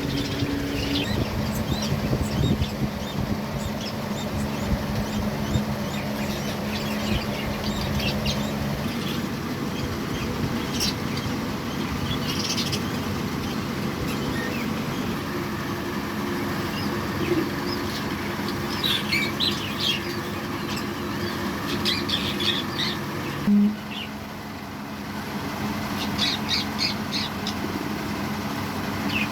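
Budgerigars chirping and squawking, many short high calls scattered throughout, over a steady low hum.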